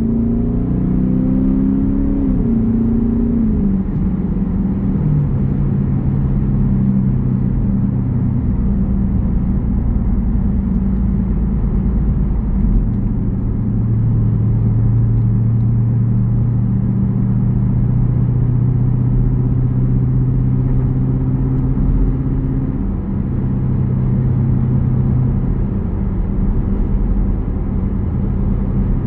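Jeep Grand Cherokee's 5.7 Hemi V8 exhaust rumbling while driving. The engine note falls during the first few seconds as it shifts up, then holds steady at cruise.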